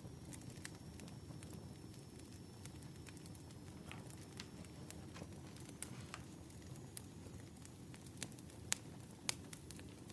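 Wood fire crackling: a faint, steady low rumble of burning logs with scattered sharp pops and snaps, two of them louder near the end.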